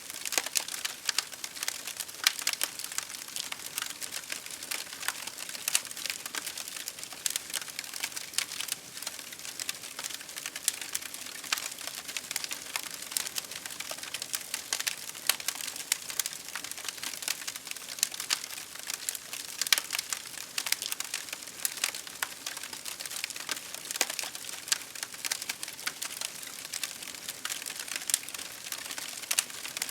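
Crackling campfire: dense, irregular pops and snaps of burning wood over a steady hiss of rain.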